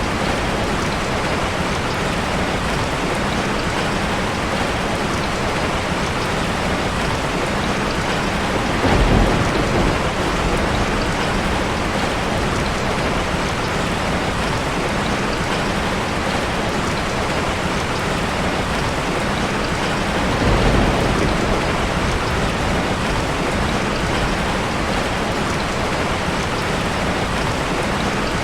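Steady heavy rain falling as a continuous hiss, with two brief louder low rumbles, one about a third of the way through and one about two-thirds through.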